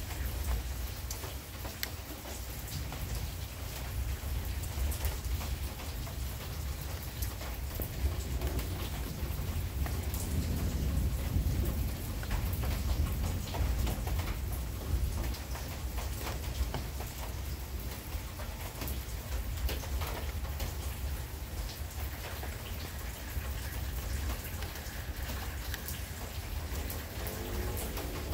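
Steady heavy rain, with many sharp drop impacts close by, over a continuous low rumble. The rumble swells a little about ten seconds in, like distant thunder.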